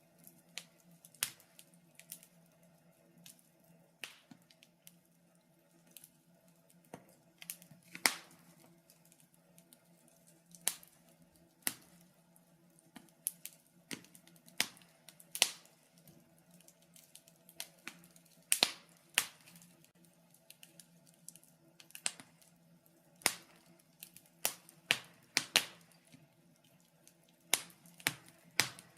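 Wood fire crackling in a fireplace: irregular sharp pops and snaps, sometimes in quick clusters, over a faint steady hum.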